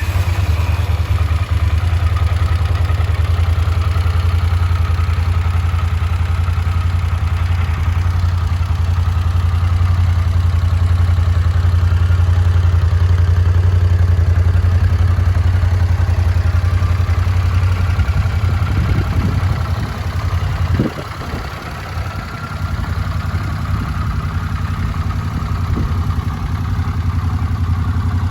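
Honda GL400 Wing's liquid-cooled, longitudinally mounted V-twin firing up and then idling steadily, with a brief dip in level about twenty seconds in.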